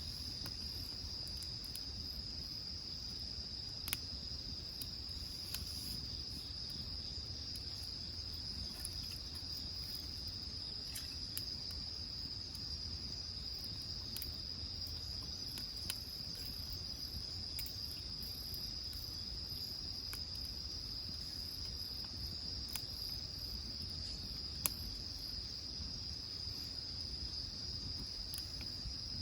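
Insects, crickets or the like, trilling steadily in one high, unbroken drone, with a few sharp pops from wood burning in the grill.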